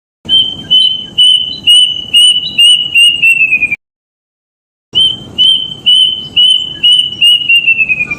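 Kedasih (plaintive cuckoo) calling: a run of about ten loud whistled notes, steady in pitch at first, then quickening and falling in pitch at the end. After a short pause the same phrase repeats and is cut off at its close.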